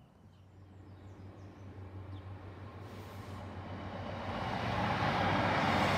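Class 153 single-car diesel train approaching, its steady low engine hum and running noise growing louder throughout.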